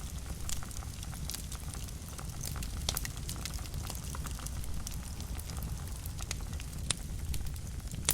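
Wood fire burning in a fireplace: a steady low rumble of flames with frequent sharp crackles and pops, two of them louder, about three seconds in and near seven seconds.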